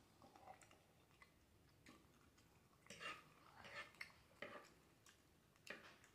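Faint chewing of black bean noodles, with a handful of soft wet mouth smacks and clicks, the clearest about halfway through.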